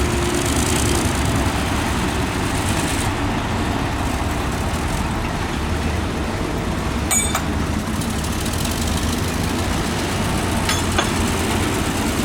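Heavy diesel earthmoving machinery running steadily at a work site, a bulldozer or dump truck engine with a deep low rumble. Two short sharp clicks stand out, about seven seconds in and again near eleven seconds.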